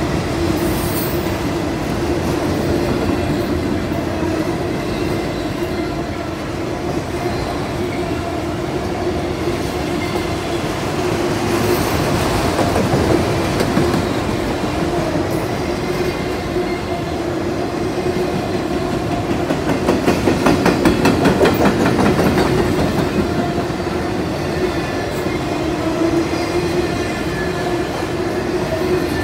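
CSX autorack freight train rolling past, its wheels clacking over the rail joints with a steady ringing tone from the wheels and rails. A quick run of louder clacks comes about two-thirds of the way through.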